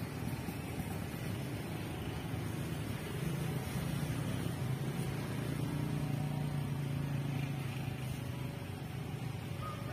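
Steady low rumble of a container freight train moving away down the line, with a low hum that swells from about three seconds in and eases near the end.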